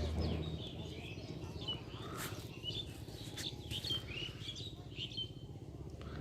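Small birds chirping repeatedly over a low steady background rumble, with a few sharp clicks in the middle.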